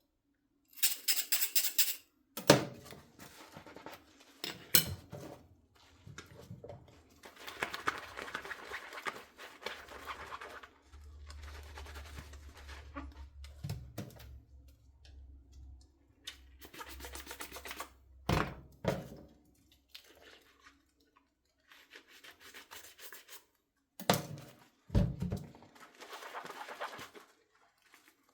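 Dishes being washed by hand at a kitchen sink, with scrubbing and splashing in irregular bursts. Several sharp knocks of dishware being handled and set down, the loudest a few seconds in. Water runs steadily for a stretch in the middle.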